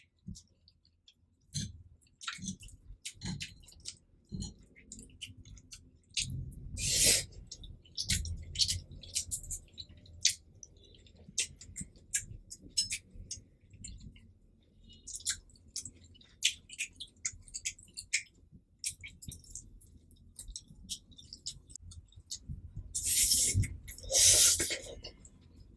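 Close-up chewing of cheesy carbonara fire noodles: a run of wet smacking and clicking mouth sounds. About seven seconds in there is one louder wet burst, and near the end two longer, louder wet sounds.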